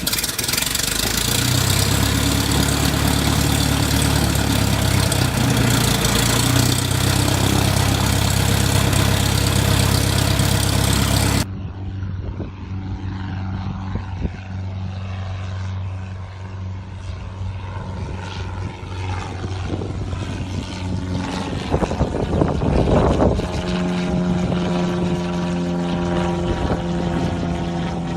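Cessna 177B Cardinal's four-cylinder Lycoming O-360 engine and propeller running steadily just after its first start. About eleven seconds in, the sound cuts abruptly to a quieter, duller engine drone, whose pitch steps up near the end.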